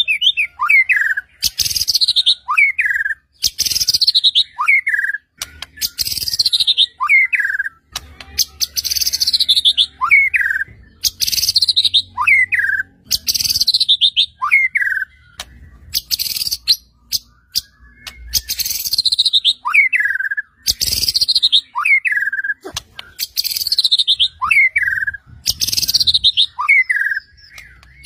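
White-rumped shama (murai batu) singing one phrase over and over, about every two seconds: a harsh, high burst followed by a falling whistled note.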